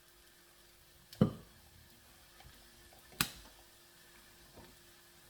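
Two sharp knocks about two seconds apart, the first the louder, from cookware or utensils being handled.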